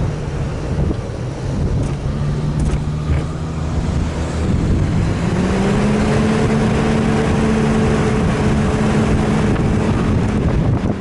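Off-road vehicle engine running under load over a steady rumble, with wind noise on the microphone. Its pitch rises about five seconds in, holds, then eases off near the end.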